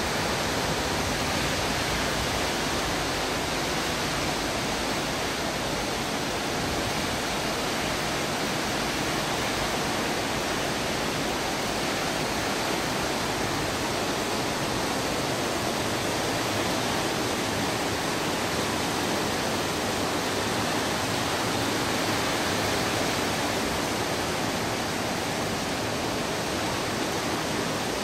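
Typhoon winds and heavy rain, a steady, dense rush of noise with a rumbling low end that does not let up.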